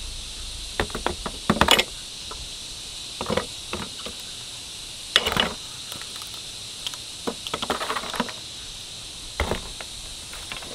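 Irregular knocks and clatters of hard objects being handled, over a steady high hiss.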